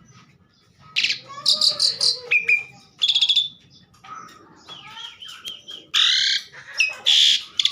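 Asian pied starling singing a varied, loud song of harsh screechy notes, fast rattles and gliding whistles, starting about a second in.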